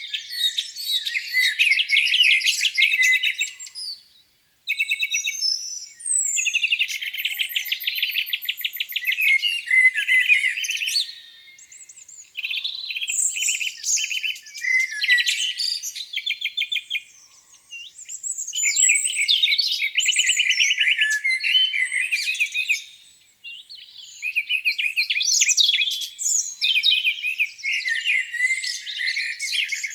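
Songbirds singing in a spring dawn chorus, several songs overlapping. The song comes in runs of several seconds with short pauses between them, and includes fast trills.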